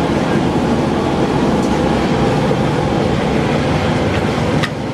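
Steady, loud rumbling roar of a high-pressure gas burner under a street-food wok, running at full flame; a few sharp metal clicks come near the end.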